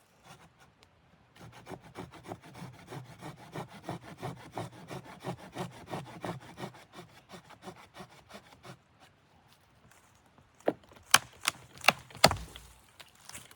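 Hand saw cutting wood with quick, even strokes, about three a second. After a pause, a few sharp knocks and a heavier thump come near the end.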